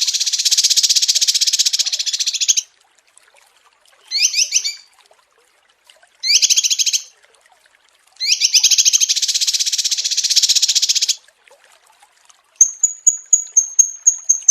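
Small songbirds singing: loud, rapid buzzy trills, two long phrases of about two and a half seconds and two short bursts, then near the end a quick run of about ten high, clear notes.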